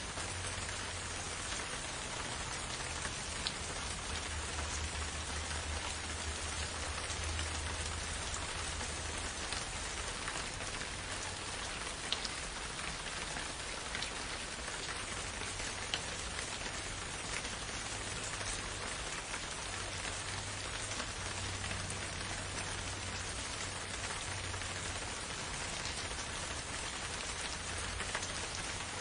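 Steady rain falling on foliage and ground, with a few single drops standing out now and then over a faint low rumble.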